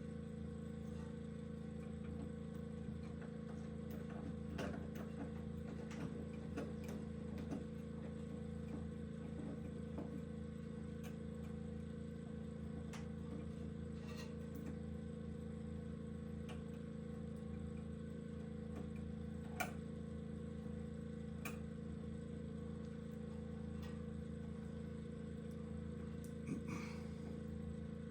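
A steady machine hum with a fixed pitch, with scattered light clicks and taps over it.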